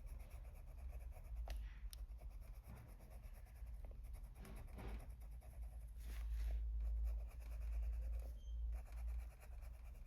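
Faber-Castell Polychromos coloured pencil scratching on paper in short, irregular strokes as light green is blended over the shading.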